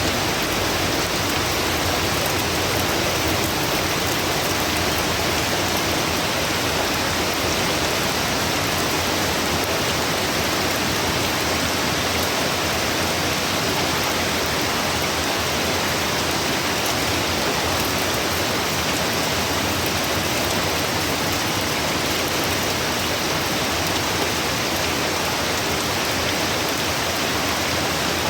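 Heavy rain pouring steadily from a hurricane storm, a constant even hiss with no let-up.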